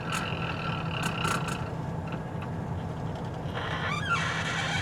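Semi truck's diesel engine running at low revs, heard from inside the cab. A thin high whine sounds over it for about the first two seconds, and a short rushing hiss comes near the end.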